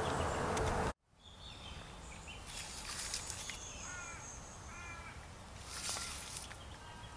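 Quiet outdoor ambience with wild birds calling: a long high whistled note, then two quick runs of short chirping notes.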